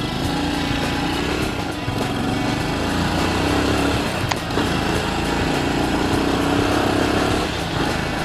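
Honda Super Cub's small single-cylinder engine running on the move, its pitch rising and levelling off a few times.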